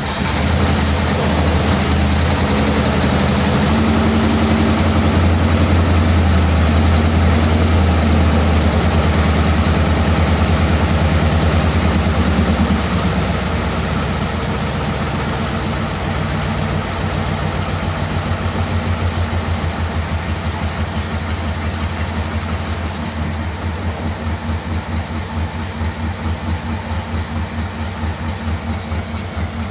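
1957 Ford Thunderbird V8 running on its original carburettor metering plate. It idles fast, then about 13 seconds in settles to a slower, quieter idle with a steady pulsing beat.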